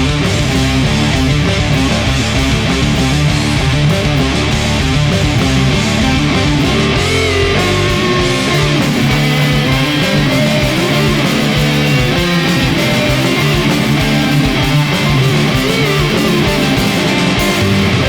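Stoner rock band recording: heavy electric guitars and bass playing a riff at a steady, loud level. The deepest bass drops away about halfway through.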